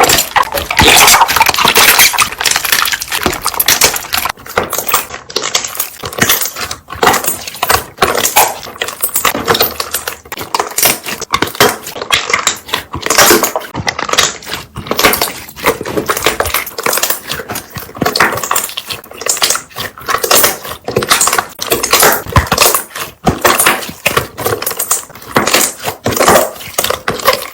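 Slime being pressed and worked by hand, giving a dense, irregular run of bubble pops and crackles as trapped air bursts.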